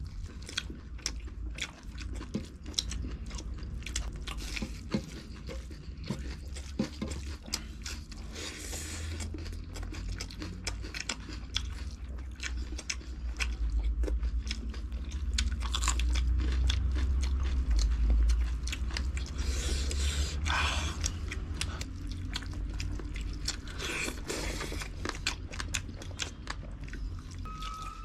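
Chewing and biting sounds of people eating rice and curry by hand: wet mouth smacks and clicks with occasional crunchy bites.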